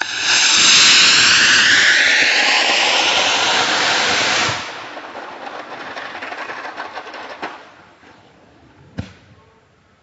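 Estes D12 model rocket motor igniting and burning with a loud rushing hiss, its tone sweeping downward, for about four and a half seconds, then dropping to a weaker hiss that fades out. A single sharp pop comes about nine seconds in.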